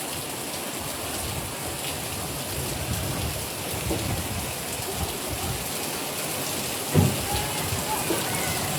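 Steady rain falling and hissing on surfaces, with one short thump about seven seconds in.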